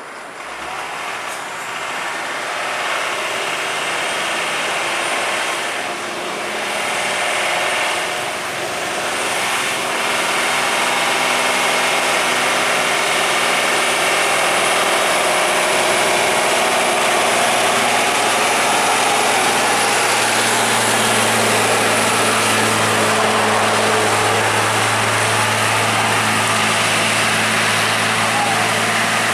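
Heavy truck's diesel engine running, growing louder over the first ten seconds as it approaches, then holding a steady loud drone.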